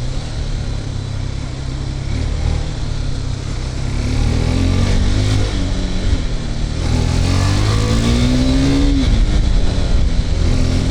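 KTM RC 390's single-cylinder engine on its stock exhaust, accelerating hard: the revs climb twice and drop sharply at a gear change about nine seconds in. The rider calls it very loud.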